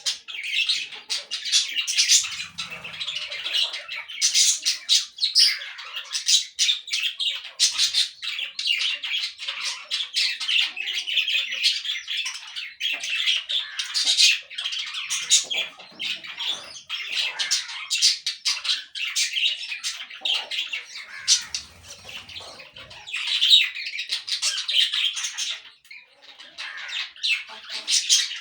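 A group of parakeets chattering and squawking, many short calls overlapping without a break.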